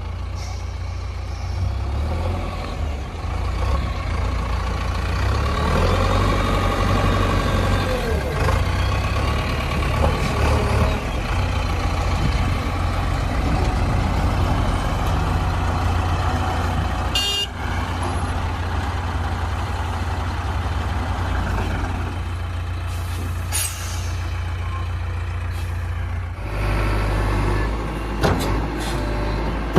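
Heavy diesel machinery engines running steadily, with a brief rise and fall in engine pitch about six to eight seconds in.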